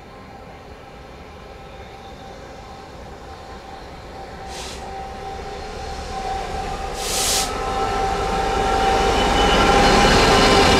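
A train approaching on the main line, its running noise and steady tones building gradually in loudness as it nears. Two brief hiss-like bursts come about four and a half and seven seconds in.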